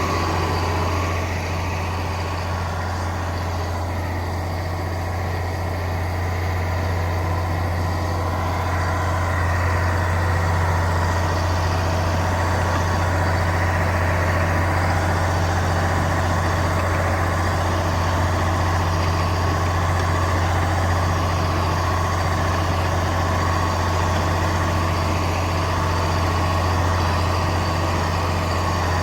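Heavy diesel engine of earthmoving machinery running steadily with a deep hum, a little louder from about nine seconds in.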